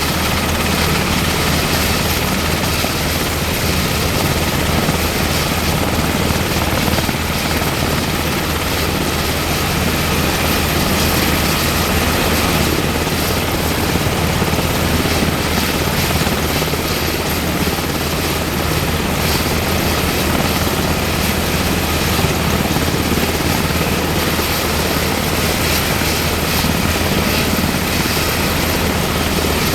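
UH-60M Black Hawk helicopter running with its twin turboshaft engines and rotor turning, a loud, steady turbine whine over the rotor noise.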